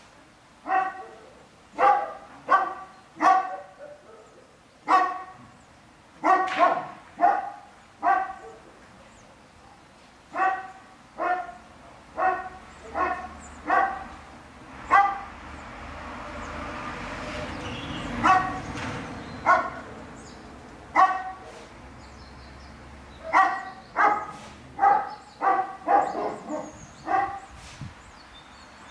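A dog barking over and over in short, sharp barks at an uneven pace. About halfway through the barking pauses while a hiss swells up and fades away again.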